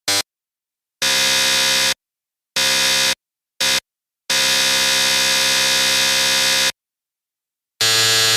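Electric buzzer sounding in bursts of different lengths with dead silence between them. There is a brief blip at the start, a buzz of about a second, a shorter one, another brief blip, and a long buzz of about two and a half seconds. A last buzz starts near the end. Each buzz is one steady, harsh, rasping tone.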